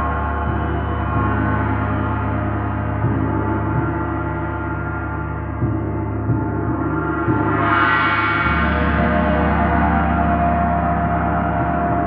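Gong ringing in a long sustained wash over a deep drone, stroked softly a few times, with a swell of brighter ringing about eight seconds in.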